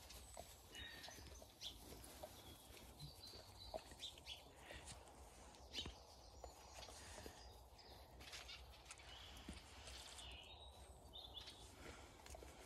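Near silence: faint outdoor quiet with birds chirping now and then in the distance.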